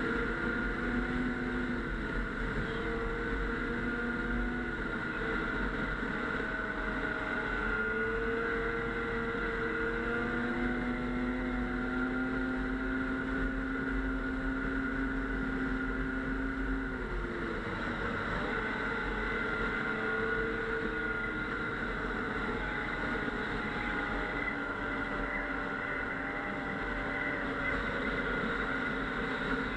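Snowmobile engine running steadily under way, its pitch drifting slowly up and down with the throttle.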